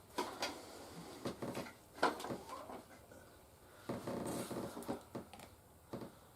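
Plastic toy figures and vehicles being handled: a series of light clicks and knocks, with a brief rustle about four seconds in.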